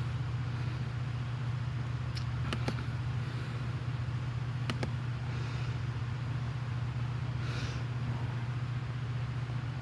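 A steady low mechanical hum, with a few sharp clicks about two and a half and five seconds in.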